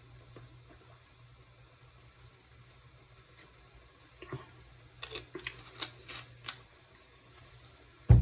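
Kitchen cookware and utensils: a faint steady hum at first, then a run of light clicks and knocks from about four seconds in, and one loud thump near the end, like a pot or utensil set down hard.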